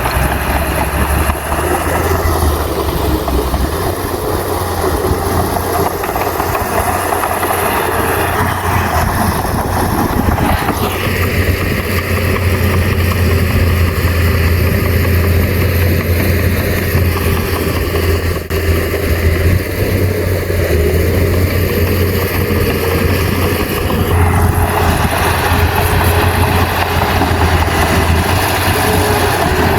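Komatsu bulldozer's diesel engine running steadily with a strong low drone; the higher part of the sound drops away about 11 seconds in and returns about 24 seconds in.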